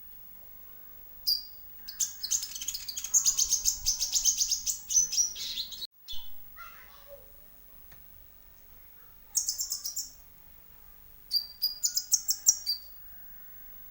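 Konin (kolibri ninja) sunbirds chirping in rapid, high-pitched trilled bouts: a long bout of about four seconds, then shorter bursts about nine and twelve seconds in. This is chorus-style song used as a lure recording to get a kept konin to sing.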